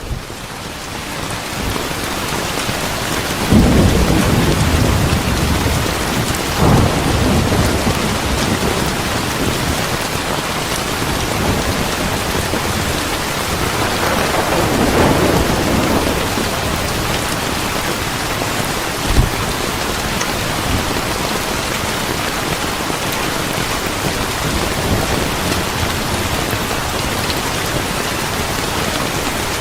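Steady heavy rain with thunder rumbling: a loud rumble about three and a half seconds in, another soon after, and a longer rolling one around the middle. A single sharp crack sounds a little later. The rain fades up over the first couple of seconds.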